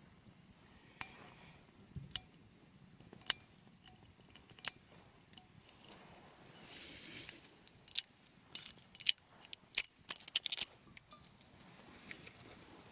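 Scattered sharp clicks and light clinks of small hard objects being handled, with a brief rustle about seven seconds in and a quick run of clicks after it.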